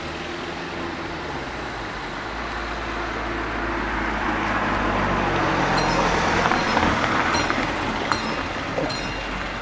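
A road vehicle with a low engine hum passes the level crossing, its tyre and engine noise swelling to a peak about two thirds of the way through. From about six seconds in, short high tones repeat about twice a second, fitting the crossing's warning alarm starting up.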